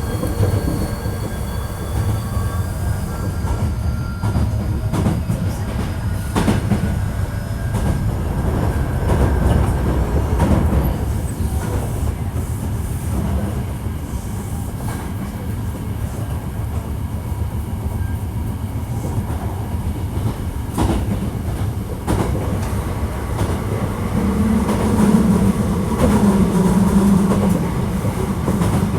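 Running noise inside a Hankyu 1300 series electric train: a steady rumble of wheels on rail with occasional knocks at rail joints. Over the first several seconds a thin electric whine slowly rises in pitch as the train speeds up. A louder low hum swells near the end.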